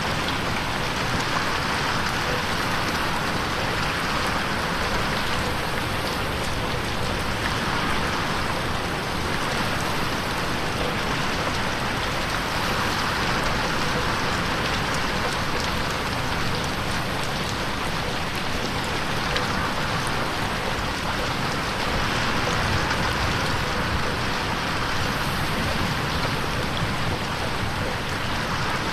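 Steady rain on a window pane, a dense even patter of drops, swelling and fading every few seconds as it is panned around in 8D.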